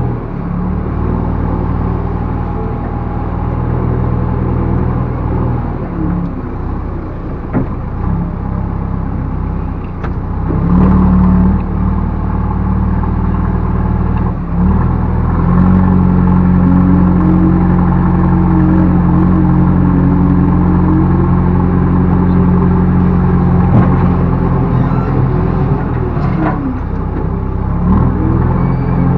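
Backhoe loader's diesel engine running, its speed rising under load twice as the machine works, with a wavering higher whine and a few short knocks along the way.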